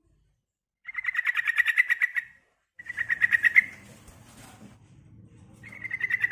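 Female yellow-vented bulbul (trucukan) calling: three rapid chattering trills of quick repeated notes, about a dozen a second, the last starting near the end. This is the female's call used as a lure to draw other bulbuls into calling and singing.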